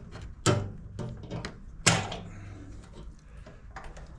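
Two sharp knocks about a second and a half apart, with lighter clicks and taps between and after them: hand tools and parts being handled while the fuel petcock is taken off a small two-stroke generator.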